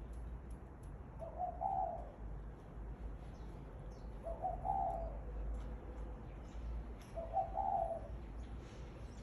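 Dove cooing: three short coos about three seconds apart, with faint high ticks and chirps in the background.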